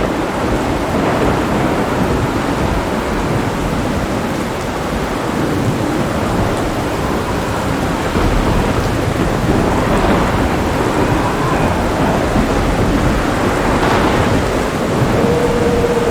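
Steady heavy rain with deep rolling thunder rumbling underneath, the thunder swelling a little about halfway through.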